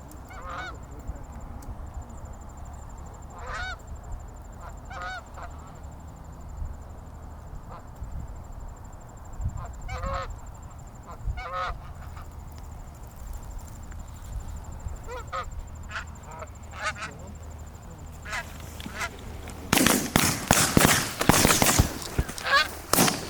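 Scattered goose honks, then near the end a rapid volley of several loud shotgun shots as an incoming flock of geese is fired on.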